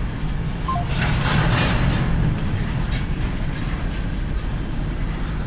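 Steady low engine rumble, with a louder rushing noise for about a second, starting about a second in.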